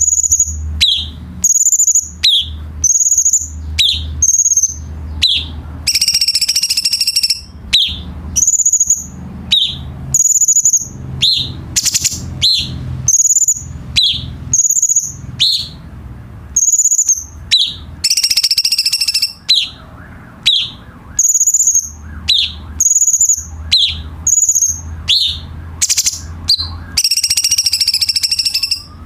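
Cucak cungkok singing: a short high whistled note followed by a quick falling note, repeated about once a second. Three times the song breaks into a longer rapid chattering trill of a second or two.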